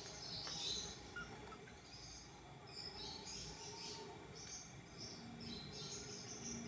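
A group of budgerigars chirping, a continuous run of short high calls overlapping one another.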